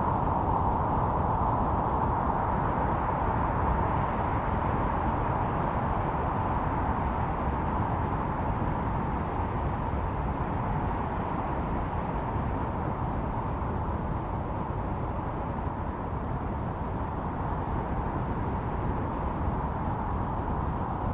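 Snowstorm wind blowing steadily, a howling whoosh with a low rumble beneath it, easing slightly in the middle and building again.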